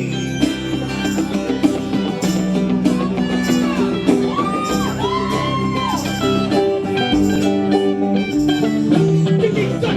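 A band playing an instrumental break with no singing: a lead guitar line with bent notes in the middle, over bass and drums.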